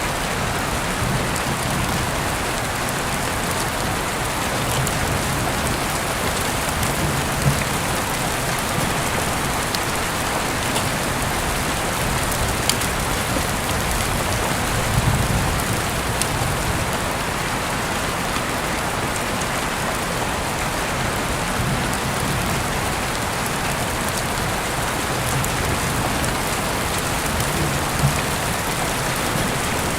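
Steady rain falling, an even hiss with a few sharp ticks of drops and soft low swells now and then.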